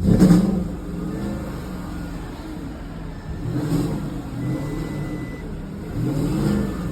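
Car engine running just after starting on a boost for its flat battery, revved up three times: about the start, halfway through and near the end.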